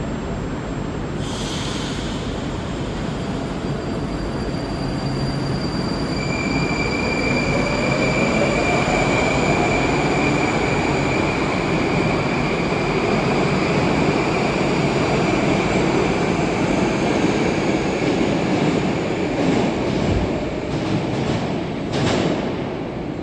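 Moscow metro train moving through the station: the running rumble of the cars, a high steady wheel squeal, and a motor whine that rises in pitch. The sound swells through the middle and eases near the end, with a sharp bang or clatter shortly before the end.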